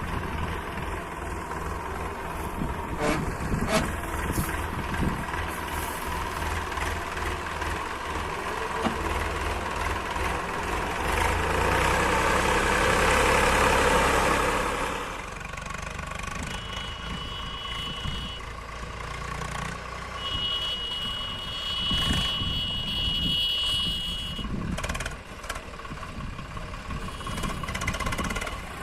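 Tractor diesel engine running under load. It swells louder for a few seconds near the middle and then drops back. A steady high-pitched tone sounds twice in the second half.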